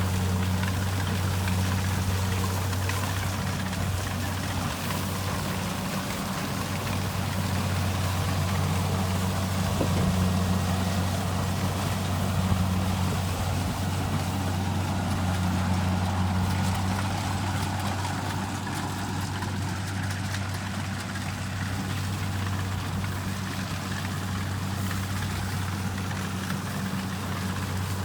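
Kubota combine harvester's diesel engine running steadily at a constant pitch, a low hum over the broad noise of the working machine.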